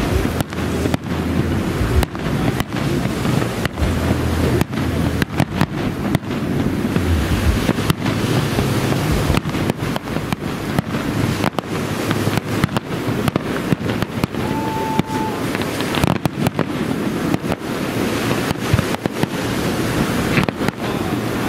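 Aerial fireworks display: shells bursting in an irregular, rapid series of bangs and crackles over a dense, steady background of noise, with a brief whistle-like tone a little past halfway.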